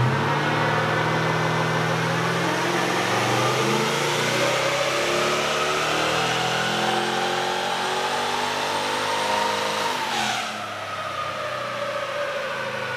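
Twin-turbo LS V8 in a Toyota Landcruiser 80 series making a full-throttle pull on a chassis dyno, its note climbing steadily through the revs for about ten seconds. It then drops back sharply as the throttle closes, with a short burst of hiss. On this run the boost surges unevenly, which the tuners put down to the wastegates pulsing.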